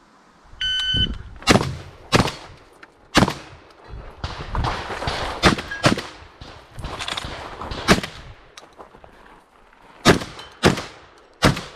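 Shot-timer start beep about half a second in, then a Beretta 1301 12-gauge semi-automatic shotgun firing about nine shots in quick pairs and singles, with short pauses between groups.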